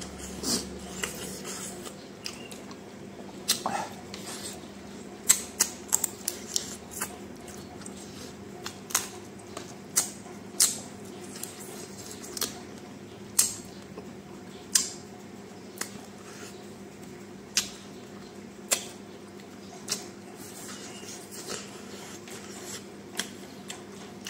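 Close-up chewing and mouth smacking while eating, heard as irregular crisp clicks about once or twice a second over a faint steady hum.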